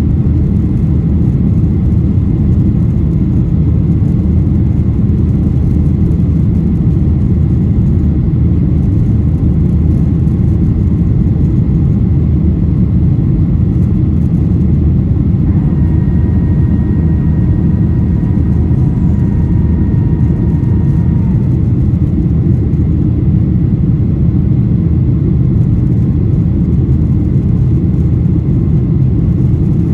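Boeing 737-800's CFM56 engines and airflow heard inside the cabin during the climb: a steady, loud, deep rumble. A faint thin whine sits on top for several seconds about halfway through.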